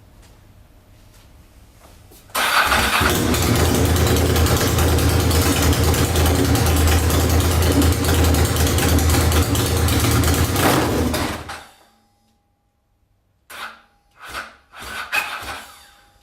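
Ducati 996 90-degree V-twin running without its final exhaust pipes. It bursts in loudly about two and a half seconds in, runs at low revs for about nine seconds and then stops, followed near the end by several short blips.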